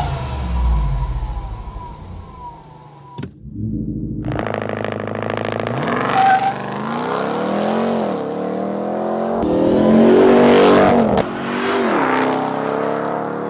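Supercharged 6.2-litre Hemi V8 of a Ram TRX truck accelerating hard, its note climbing and dropping several times as it pulls through the gears. The sound breaks off about three seconds in and comes back a second later.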